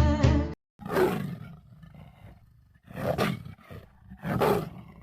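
A cat's calls: three loud, drawn-out, rough calls about a second and a half apart.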